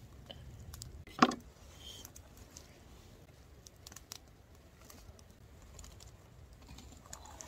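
Faint scattered clicks and taps of food and utensils being handled, with one short louder sound about a second in.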